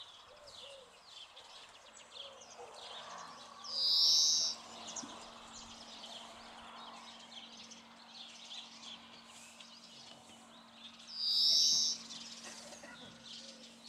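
Songbirds singing and chirping, with one louder call of under a second heard twice, about seven seconds apart.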